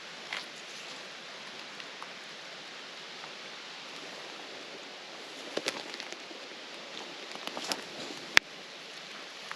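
Steady outdoor hiss with scattered crackles and rustles, and one sharp snap a little after eight seconds in, the loudest sound.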